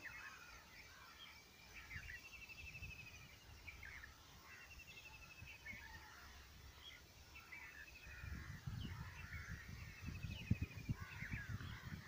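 Faint morning birdsong from several birds: many short chirps and repeated buzzy trills. Low rumbling thumps join in during the second half.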